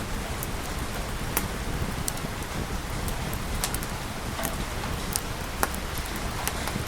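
Steady rain hissing, with irregular sharp crackles and pops of a wood fire a few times a second.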